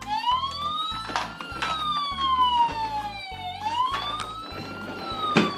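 Electronic toy siren wailing, its pitch slowly rising and falling twice, over a pulsing electronic beat from the toy's speaker. A couple of sharp plastic knocks come from the toy being handled.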